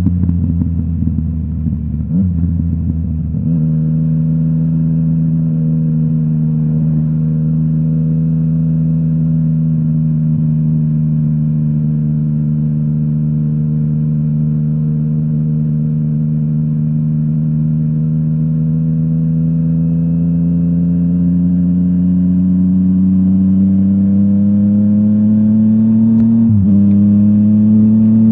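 Yamaha MT-09's three-cylinder engine running through a full Akrapovic exhaust, holding a steady pitch that sags slightly and then climbs gradually. It is rough and uneven for the first few seconds, and the pitch dips sharply for a moment near the end before picking up again.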